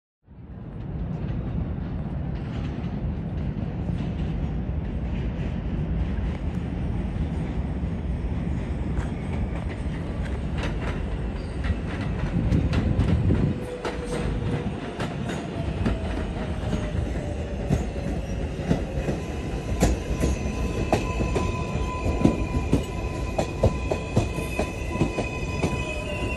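R142A subway train running on the rails: a steady heavy rumble with wheels clacking over rail joints and squealing, with rising whining tones near the end.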